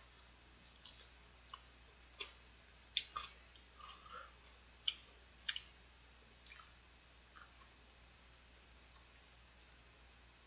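Someone eating fried chicken by hand: irregular crisp crunches and mouth clicks from biting and chewing the batter, about a dozen over seven seconds, with a faint steady hum underneath.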